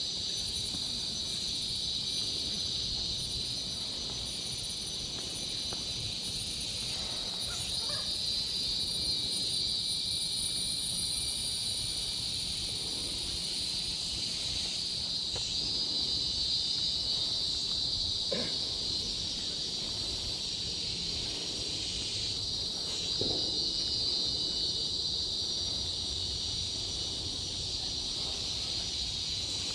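A steady, high-pitched drone of forest insects that holds unbroken throughout, with a few faint brief sounds over it.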